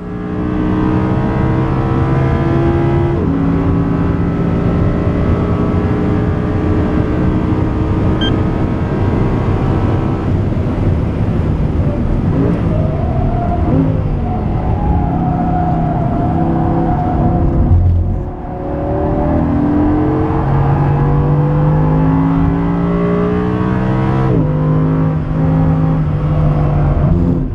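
Audi R8 V10 Plus's 5.2-litre V10 driven hard on track. Its note climbs in pitch and drops sharply at upshifts, about 3 seconds in and again near the end. In the middle it falls and wavers as the car brakes and downshifts, then climbs again under full throttle.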